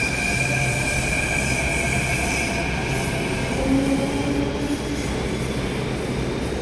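Passing train's steady rumble with a high, steady wheel squeal that fades away after about three seconds.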